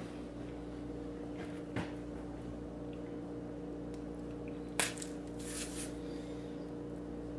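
A person handling and eating a banana: a sharp click about two seconds in, a louder click near five seconds, and a short rustle just after, over a steady electrical hum.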